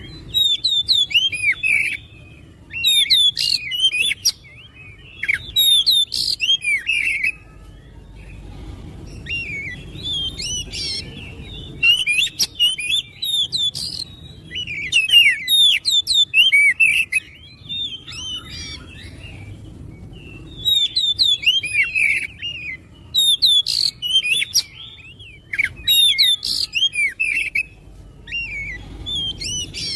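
Oriental magpie-robin (kacer) singing loud, fast bouts of varied whistles and chirps, each phrase lasting a second or two with short pauses between them.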